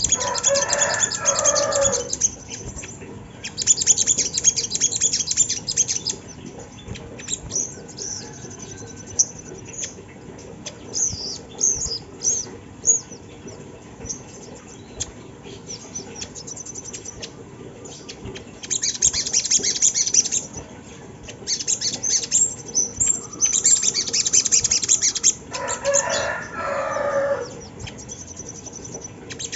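Crimson sunbird (sogon) calls: bursts of very high, fast, buzzy trilling lasting one to three seconds, repeated several times with shorter chirps between. Twice, at the start and near the end, a lower call steps downward in pitch alongside the trill.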